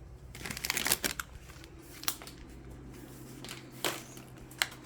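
Crinkly packaging being handled: a burst of rapid crackling rustles about half a second in, followed by a few single sharp clicks and taps.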